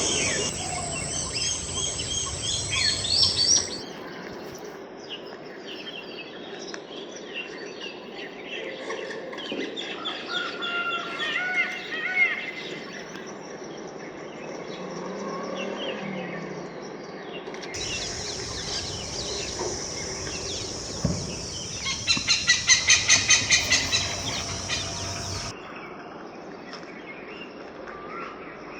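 Birds chirping and calling over a steady outdoor background, with the background changing abruptly a few times where recordings are joined. Near the end comes a loud, fast run of chattering notes, about six a second, lasting a couple of seconds.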